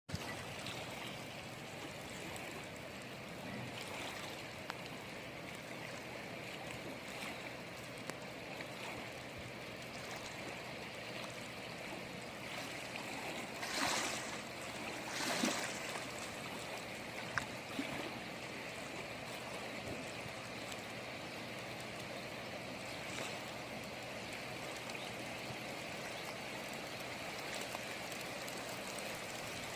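Rain falling at the sea's edge: a steady hiss of water with scattered small drip taps, and two brief louder swells about halfway through.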